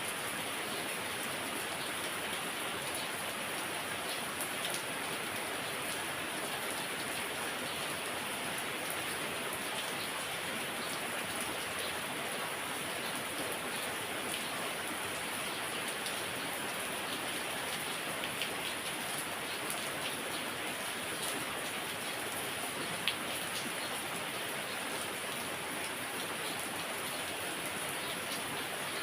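Heavy rain falling steadily, with a few louder drops tapping now and then.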